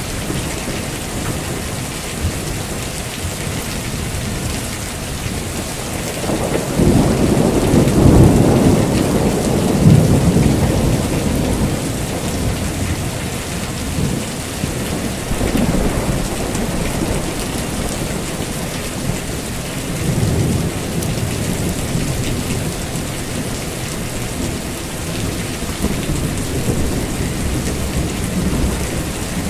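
Heavy rain falling steadily, with rolling thunder: a long low rumble swells from about six seconds in and fades around eleven seconds, and weaker rumbles follow at about sixteen and twenty seconds.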